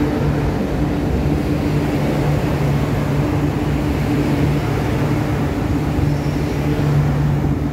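MTR Kwun Tong Line train pulling out of a station platform behind the platform screen doors: a steady rumble of wheels and running gear with a low, steady hum.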